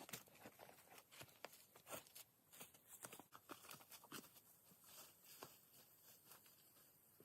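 Faint, irregular clicks and light taps, several a second, over a faint high hiss.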